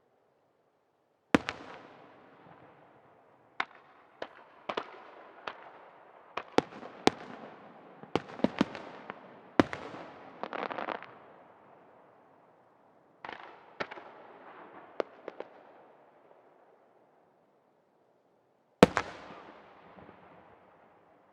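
Aerial firework shells bursting. One sharp report comes about a second in, followed by a quick irregular run of bursts with a stretch of crackle, then another short cluster, and a last big boom near the end. Each report trails off in echo.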